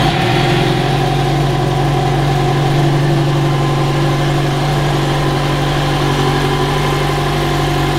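Yamaha XJ6's inline-four engine idling steadily, just after being started, through its stock exhaust. The sound is even and subdued; it is likened to a washing machine, the quiet note of the original silencer.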